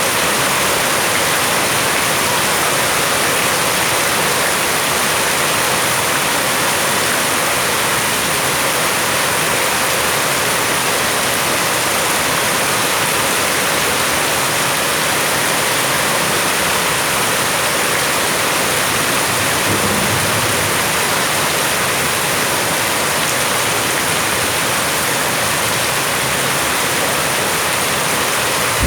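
Heavy rain falling steadily, a dense even hiss of pouring water without a break.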